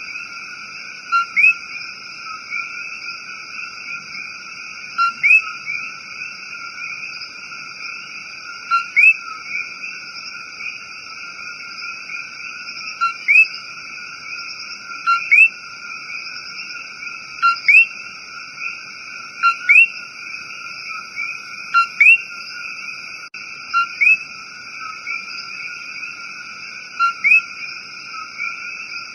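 A chorus of coqui frogs calling, a dense steady mass of overlapping two-note calls. Every two to three seconds a nearer frog's loud "co-qui" stands out: a short low note followed by a rising whistle.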